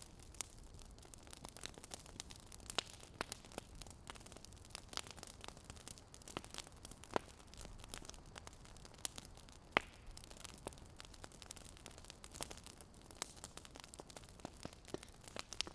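Fire crackling: irregular sharp pops and snaps, a few each second, over a faint steady hiss.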